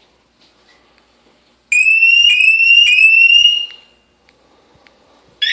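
Scorpio motorcycle alarm on a 2004 Kawasaki ZX-10 sounding three quick rising electronic chirps in a row, each about half a second long. A short sharp click-like sound follows near the end.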